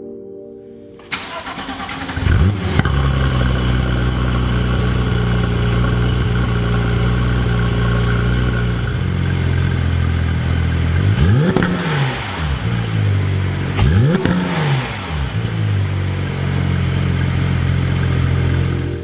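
Porsche 991.2 GT3's naturally aspirated 4.0-litre flat-six starting up, flaring briefly and then settling into a steady idle. Two quick throttle blips come about halfway through, each rising and falling in pitch, before it returns to idle.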